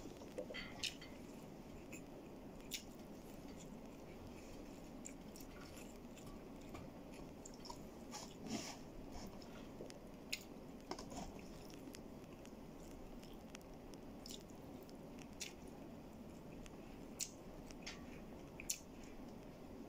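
A person chewing food close to the microphone, with scattered light clicks of a plastic spoon against a plastic food container over a low steady room hum.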